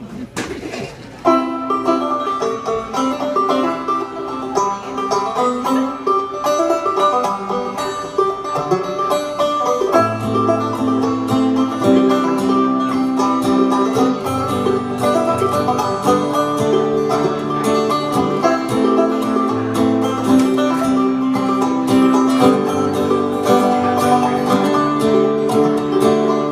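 Instrumental intro of an acoustic folk song: plucked string instruments playing, with a lower part joining in about ten seconds in.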